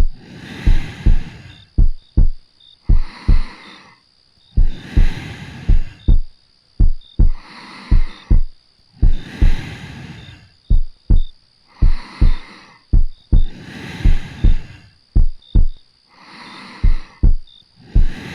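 Slow, steady heartbeat, a low double thump about once a second, heard as if from against the chest. Slow, soft breathing runs under it, each breath in and out swelling and fading over a second or two.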